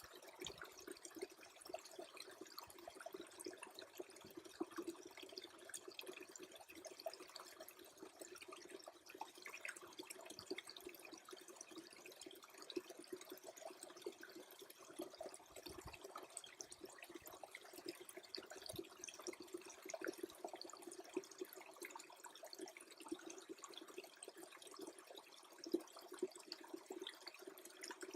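Small brook freezing over: water trickling faintly, with a dense, irregular patter of tiny drips and clicks.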